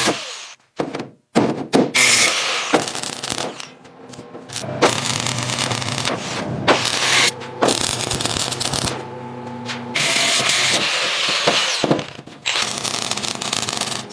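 Workshop tool sounds cut together in quick succession: stretches of power-tool whirring and scraping, broken by sharp knocks and clicks.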